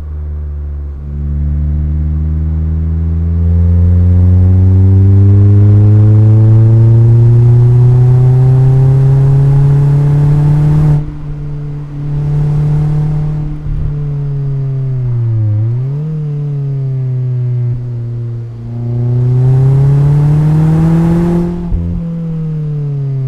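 Mazda MX-5's four-cylinder engine and exhaust under hard acceleration: the pitch climbs steadily for about ten seconds, then drops suddenly as the throttle closes. It rises briefly again, climbs once more, and falls away near the end.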